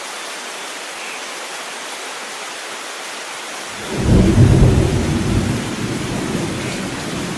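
Steady rain hiss, then a roll of thunder breaks in about four seconds in, loudest at the start and rumbling on as it slowly fades.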